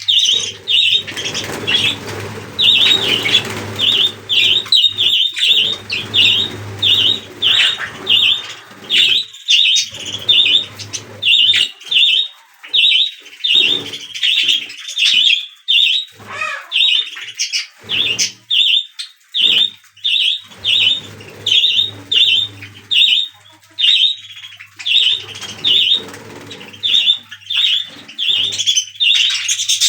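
Budgerigar chicks chirping: short, high, evenly repeated chirps, roughly two a second, kept up without a break.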